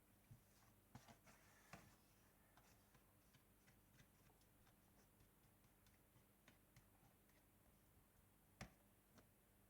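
Faint small clicks and ticks, a few louder in the first two seconds, then a light run of about three a second, with one sharper click near the end.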